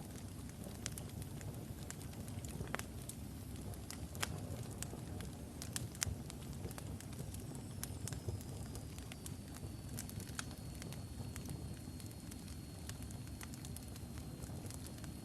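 Wood fire burning logs in a fireplace: a steady low rumble of flames with scattered sharp crackles and pops. A faint, thin high whistle comes in about halfway through and holds.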